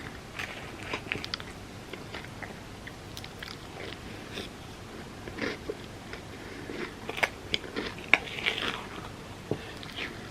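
Close-miked eating of a Biscoff sundae: crisp crunching and chewing in quick, irregular bites, loudest and busiest about seven to eight seconds in.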